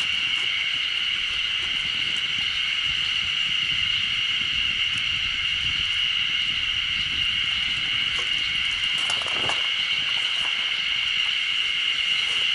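A steady, high-pitched drone of insects, even in level throughout.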